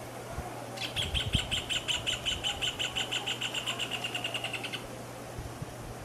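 Rufous hornero singing: a loud run of sharp repeated notes starting about a second in, speeding up and fading, stopping about a second before the end.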